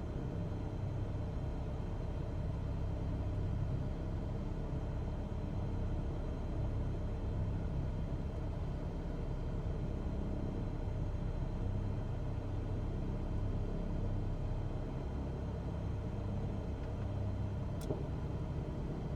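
Cessna 172's piston engine and propeller droning steadily in flight, a low even rumble, with one brief faint click near the end.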